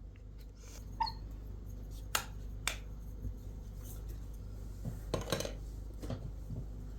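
Cutlery clicking and clinking against plates during a meal: a few separate sharp clicks, then a short clatter about five seconds in.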